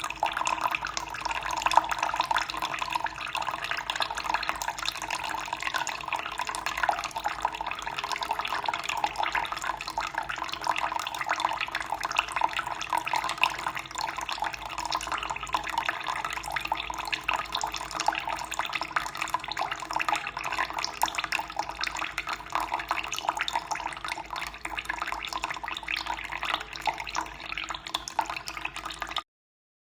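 Running water splashing and trickling steadily. It cuts out for a moment near the end.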